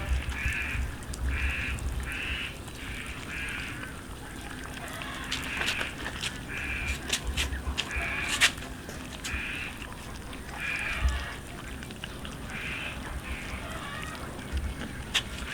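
Short animal calls repeated roughly once a second, with scattered sharp clicks in the middle stretch.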